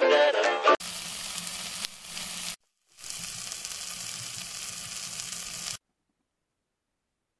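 Pig's trotters in a chili-paste sauce sizzling as they stir-fry in a wok. The sizzle comes in two stretches with a short break between them, and stops suddenly near the end. It follows the last moment of a music jingle.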